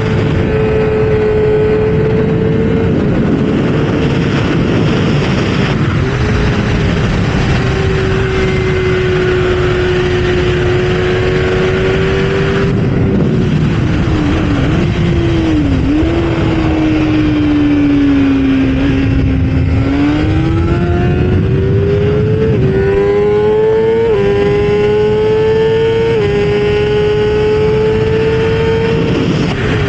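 Kawasaki ZX-6R's inline-four engine running hard at high revs on a racetrack, heard onboard over heavy wind noise. Its pitch sags as the bike slows through the middle, with brief dips and blips, then rises again through several upshifts near the end.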